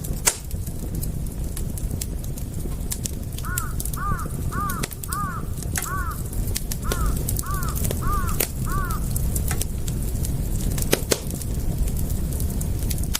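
Campfire crackling and popping over a steady low rumble of burning wood. In the middle, a bird calls in a quick series of about nine short, arched notes.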